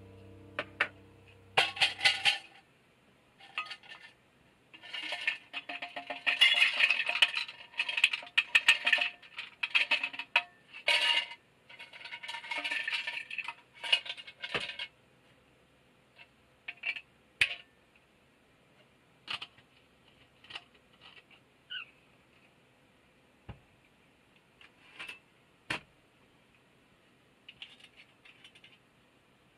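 Irregular clinking and clicking of small hard objects, dense and busy for the first half, then thinning to scattered single ticks.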